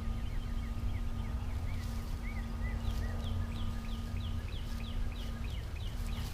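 A bird singing a long series of short whistled notes, about three a second: arched notes at first, then quick down-slurred ones in the second half, over a low rumble and a steady hum.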